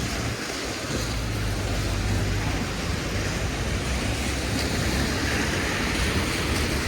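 Steady noise of a rainy city street at night: an even hiss with a low rumble that swells about a second in.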